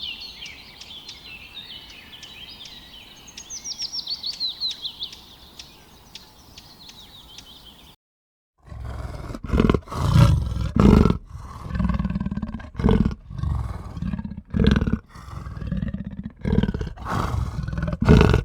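Birds chirping and trilling, with a run of quick descending notes about four seconds in; after a brief silence a large animal starts a loud series of low, rough roaring calls, one burst after another.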